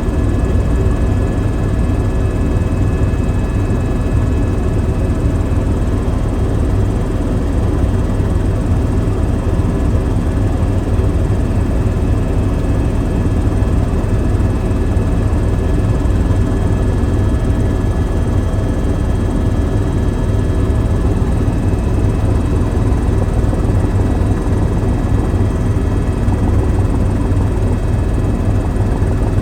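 Helicopter in steady flight: a constant, heavy rotor and engine drone with a thin steady whine above it.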